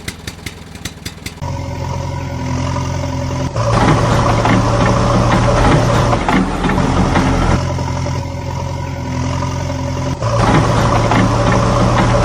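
Engine running steadily at a constant pitch. It starts about one and a half seconds in, becomes louder about two seconds later and holds there, with brief dips around six and ten seconds.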